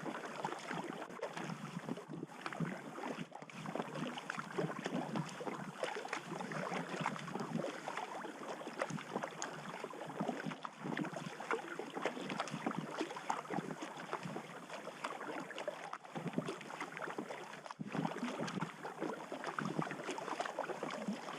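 Water splashing and sloshing around a packraft as it is paddled down a river, with many small irregular splashes.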